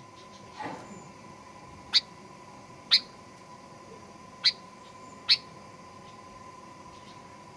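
Sooty-headed bulbul (kutilang) giving four short, sharp chip calls spaced a second or so apart, over a faint steady high hum.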